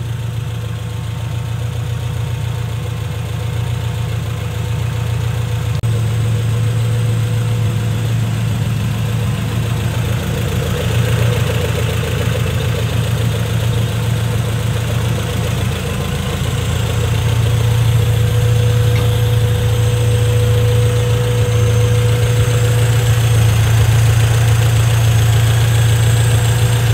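Honda B20VTEC four-cylinder engine idling steadily and evenly, with a thin steady whine over the engine note. It runs smoothly, with no abnormal valve ticking after a fresh valve lash adjustment.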